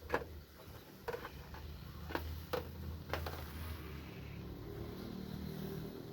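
A few short clicks and knocks, five in the first three seconds, over a low steady hum.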